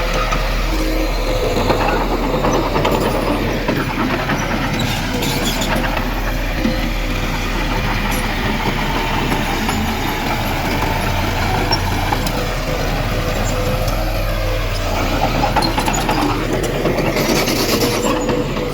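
Crawler bulldozer working: its diesel engine runs steadily with a constant whine, and its tracks clank and rattle.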